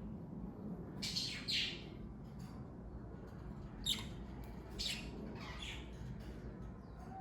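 Pet budgerigars chirping in short, high-pitched bursts: a pair of chirps about a second in, a sharp single chirp about four seconds in, and another pair shortly after, over a low steady background hum.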